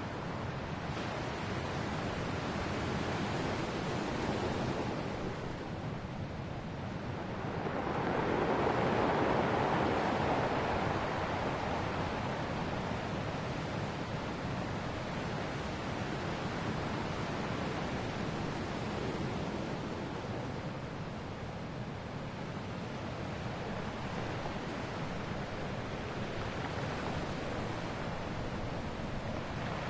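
Ocean surf: continuous waves washing on a shore. A smaller swell comes a few seconds in, and a bigger wave rises about eight seconds in and fades over the next few seconds.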